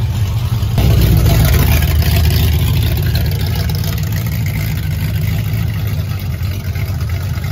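Hot rod's engine running with a loud, low exhaust rumble as the car drives slowly down the street, getting louder about a second in.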